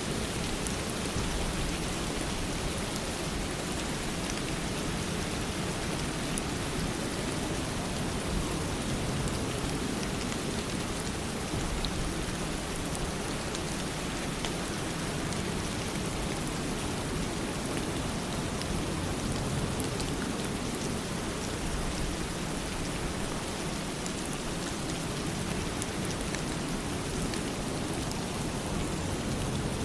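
Steady rain falling, an even hiss of rainfall with scattered small drop ticks and no let-up.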